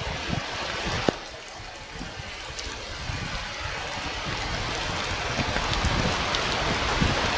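Outdoor hiss of weather on a rooftop nest camera's microphone, swelling over several seconds, with a sharp knock about a second in and low rumbling at the start.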